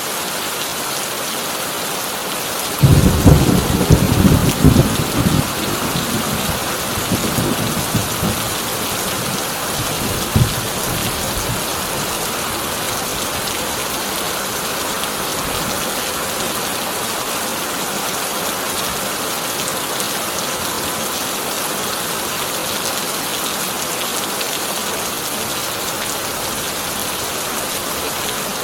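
Heavy rain drumming steadily on a corrugated tin roof, with a loud rolling peal of thunder about three seconds in that rumbles for a few seconds, a weaker rumble after it, and a short sharp clap around ten seconds.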